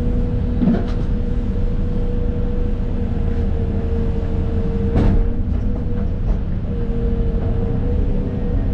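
Excavator's diesel engine running under load, heard from inside the cab, a deep rumble with a steady whine above it. Two sharp knocks stand out, one about a second in and one about five seconds in.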